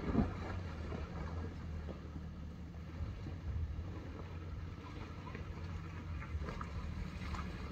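Steady low hum of a moving vehicle, with wind noise on the microphone.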